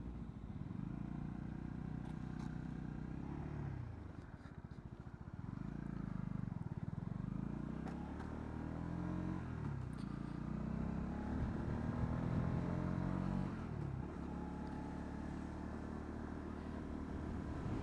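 Honda CB125R's single-cylinder 125 cc engine running under way. Its pitch falls and it quietens about four seconds in, then it rises in several steps as the bike picks up speed again.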